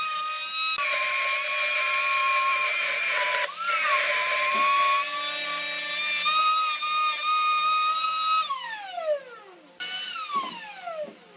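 Handheld electric power tool motor running with a steady high whine, pausing briefly about three and a half seconds in. Near the end it winds down with a falling whine, starts up briefly once more and winds down again.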